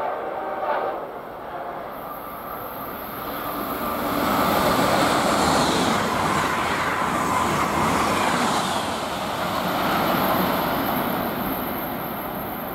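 A passenger train on the Northeast Corridor sounds its horn, with the blast ending about a second in, then passes close by. The rush of its wheels and cars on the rails builds to its loudest in the middle and then eases off.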